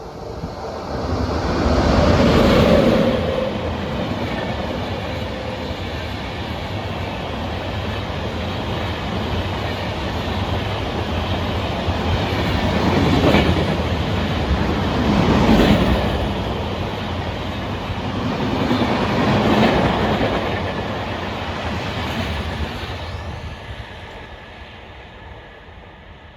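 Express train passing at speed, with rumble and wheel clatter on the rails. It swells to its loudest about two seconds in, carries on with several louder surges, and fades away near the end.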